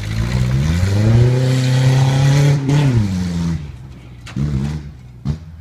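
Off-road tuff truck's engine revving hard: the pitch climbs, holds high for about two seconds, then falls away. Two short throttle blips follow near the end.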